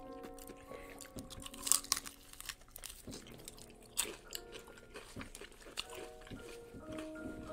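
Close-miked biting and chewing of fried chicken wings: crisp crunches with wet chewing between them. The loudest crunches come a couple of seconds in and again about four seconds in.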